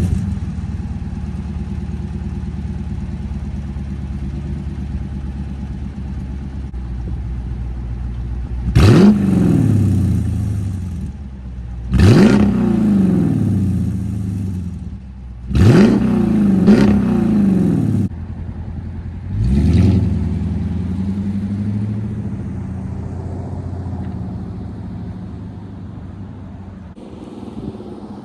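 2017 Dodge Durango R/T's 5.7-litre Hemi V8 idling through an exhaust with the rear mufflers deleted and an X-pipe fitted. After about nine seconds of idle it is revved four times, a few seconds apart, the third a quick double rev, and each time it drops back to a steady idle.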